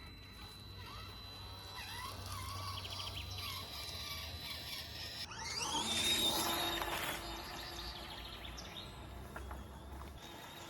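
Small electric motor and gearbox of a 1/18-scale RC rock crawler whining. About five seconds in it winds up sharply in pitch, holds a high whine for a couple of seconds, then drops back.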